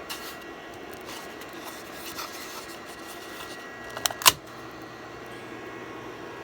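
Small scrapes and clicks of a PLA print being worked off a 3D printer's bed, with one sharp snap about four seconds in. A steady hum runs underneath.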